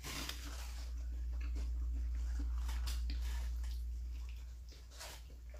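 Close-up eating sounds of someone biting and chewing a Philly cheesesteak sandwich: soft wet mouth clicks and smacks, with a sharper one near the end, over a steady low hum.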